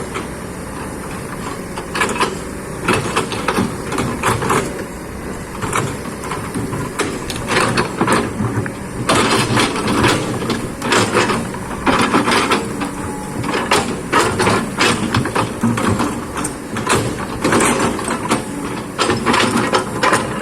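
Excavator's diesel engine running steadily as the machine works, with many short knocks and clanks over it that come more often from about halfway through.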